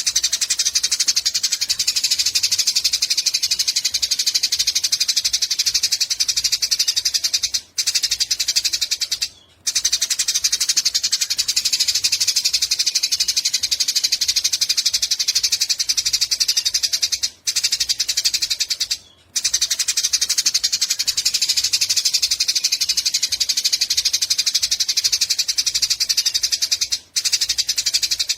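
Eurasian tree sparrow giving its long, very fast chattering trill ('nyecret panjang'), in runs lasting several seconds that break off briefly a few times.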